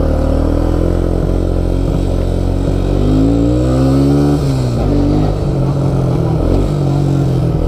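Single-cylinder 250 ATV engine running while riding, its pitch rising about three seconds in as it speeds up and dropping back after about four and a half seconds.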